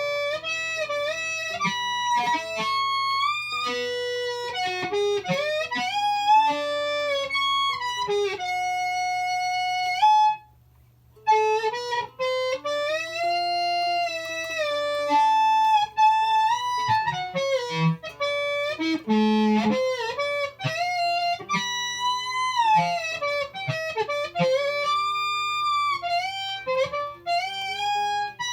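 Electric guitar played through a DigiTech FreqOut feedback pedal into a ZVex Fuzz Factory fuzz: long, fuzzy sustained notes that slide and bend in pitch, with one short break about ten seconds in. A steady low hum runs underneath.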